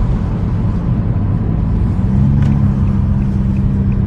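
Nissan 350Z's 3.5-litre V6 with aftermarket exhaust (high-flow cats, Y-pipe, ISR blast pipes) cruising, a steady low rumble with road noise; a steady engine drone sets in about two seconds in.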